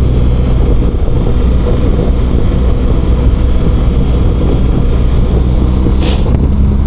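BMW R1200GS boxer-twin engine running at a steady cruise under road and wind noise. A brief hiss about six seconds in.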